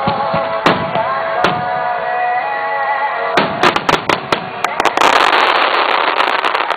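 Fireworks bursting over music: two single bangs near the start, then a rapid run of bangs from about three and a half seconds in, turning into dense crackling for the last couple of seconds.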